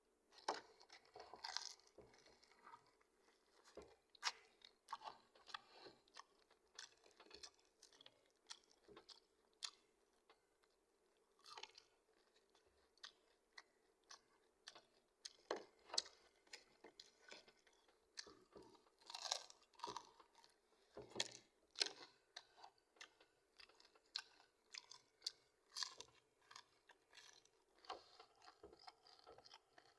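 Close-miked mukbang eating sounds: a person chewing fried chicken and rice, with irregular crunches of crisp chicken skin and wet mouth smacks, several a second in bursts, with short pauses between.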